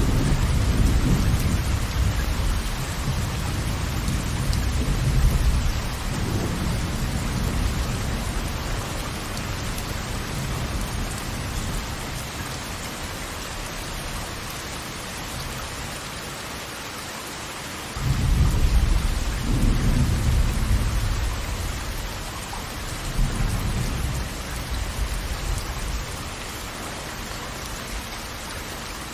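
Steady rushing hiss of falling water, with deep low rumbles that swell and fade several times; one rumble starts suddenly about two-thirds of the way through.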